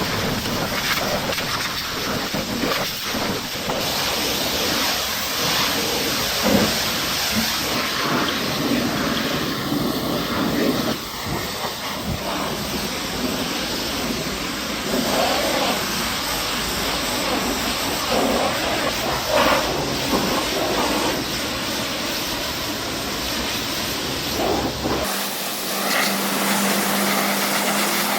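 Pressure washer spraying water, a steady loud hiss of water striking a surface. The sound shifts abruptly about three seconds before the end, as the spray changes.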